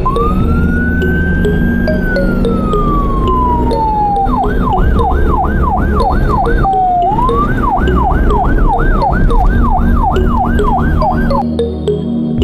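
Emergency-vehicle siren sound effect over background music: one long wail that rises and slowly falls, then a fast yelp sweeping up and down about three times a second, broken once briefly near the middle and stopping about a second before the end.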